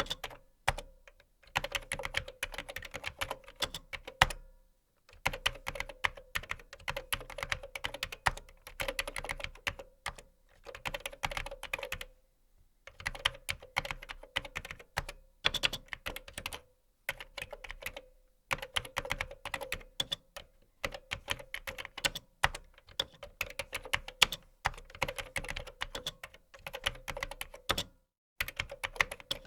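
Fast typing on a computer keyboard: quick runs of key clicks broken by short pauses every few seconds.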